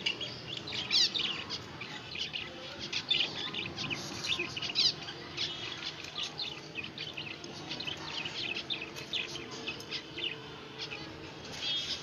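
Birds chirping with many short, quick calls and rapid repeated chirps, going on steadily over a faint low hum.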